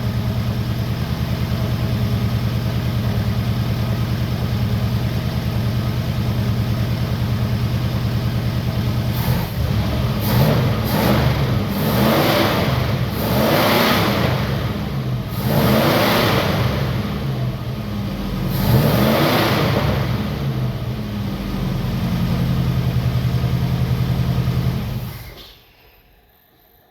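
1962 Oldsmobile F85's aluminum-block V8 idling steadily, then revved in a series of blips, settling back to idle and switched off near the end. It runs smoothly on new ignition points and a new coil.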